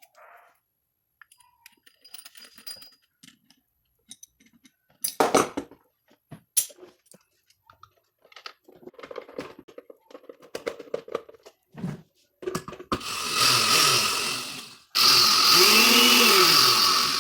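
Scattered clicks and knocks of blender parts being handled, then the electric blender motor is switched on twice, running loudly for about two and then three seconds with a brief stop between. In the second run the pitch rises and then falls. This is the repaired blender being test-run.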